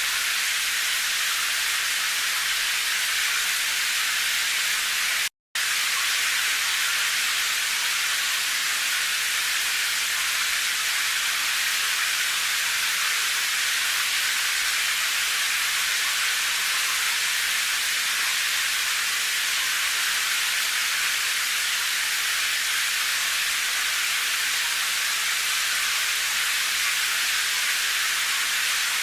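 Steady rain sound: an even hiss with no single drops standing out, sitting mostly in the high range with little low end. It cuts to silence for a split second about five seconds in.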